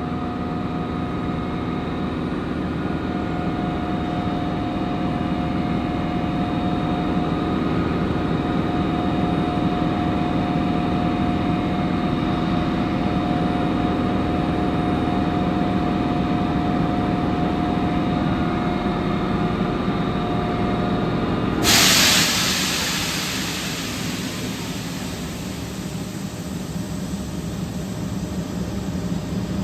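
A train standing in the station hums steadily, with several steady tones over a low drone. About 22 seconds in, a sudden loud hiss of air breaks out and then slowly eases off.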